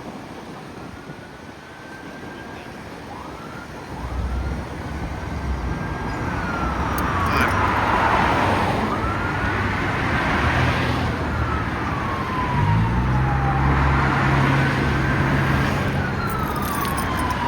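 Emergency vehicle siren wailing in slow rising and falling sweeps, one every few seconds, growing louder over the first several seconds as it approaches. A vehicle engine drones low underneath.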